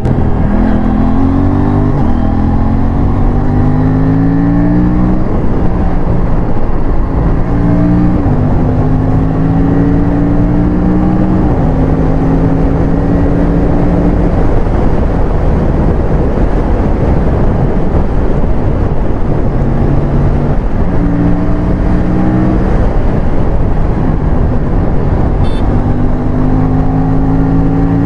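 Aprilia RS457's parallel-twin engine pulling hard through the gears, its pitch climbing and then dropping sharply at each upshift. Heavy wind rush at speed, which at times covers the engine.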